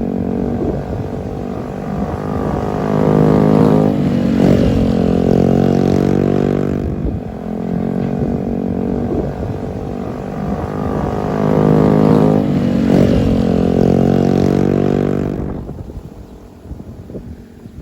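Honda Click 125i scooter's single-cylinder four-stroke engine through an aftermarket Akrapovic exhaust, revved up and let fall back twice, then dropping quieter near the end.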